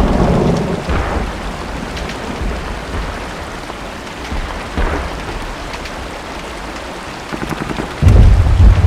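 Steady rain with a deep rumble that fades over the first second, a single short thump about five seconds in, and a sudden loud, deep boom near the end.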